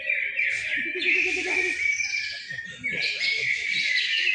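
Several caged greater green leafbirds (cucak ijo) singing at once in a dense, continuous tangle of fast, varied whistles and chatter, with people's voices murmuring underneath.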